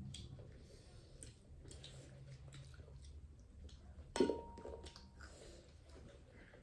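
Close-up eating sounds of duck curry: chewing with small wet clicks. About four seconds in comes one sharp clink with a short ringing tone, the loudest sound.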